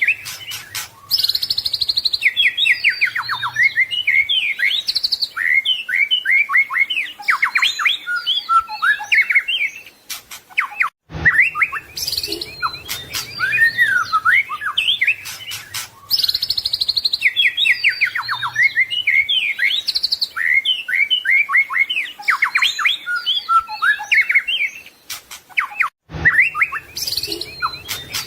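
White-rumped shama (murai batu) singing a fast, varied song of whistles, trills and chattering phrases packed with mimicked notes. The same stretch of song repeats, restarting with a sudden cut about eleven seconds in and again near the end.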